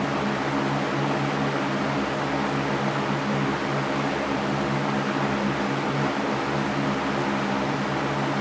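Electric fan running steadily: an even whooshing noise with a low motor hum underneath, unchanging.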